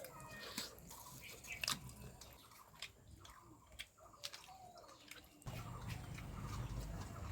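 Eating noises: scattered wet clicks and lip smacks of someone eating rice and fish curry by hand, with a short chirp near the start. A low steady rumble comes in about five seconds in.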